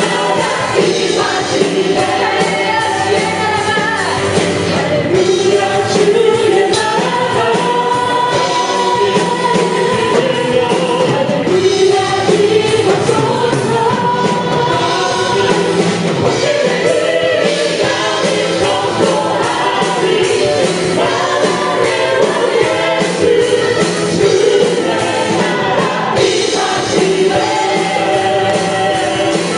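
Live contemporary worship music: a praise team with several voices singing together over the band, steady and continuous.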